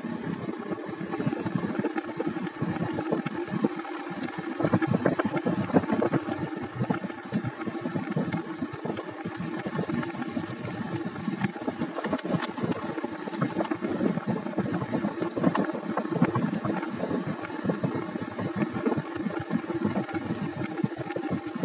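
Motorcycle engine running steadily while riding, a continuous drone with no change in pace.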